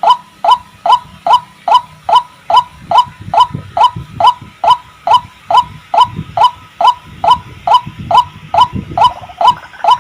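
White-breasted waterhen (ruak-ruak) calling: a steady, even run of short notes, each falling in pitch, about two and a half a second.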